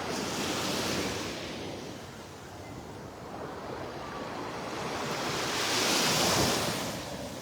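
Small Gulf of Mexico waves breaking and washing up the sand in two swells of hiss, the second louder, about six seconds in.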